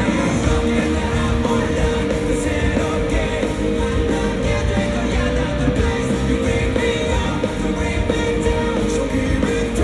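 Rock band music with a singer, loud and continuous.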